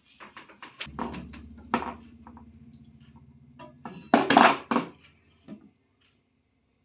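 Metal clinking and knocking as hard objects are handled, with a low steady hum underneath for a few seconds and a louder clatter about four seconds in.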